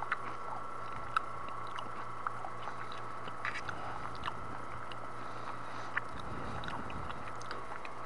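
A person chewing a mouthful of food, with scattered light clicks of a fork against a plastic meal tray, over a steady background hum.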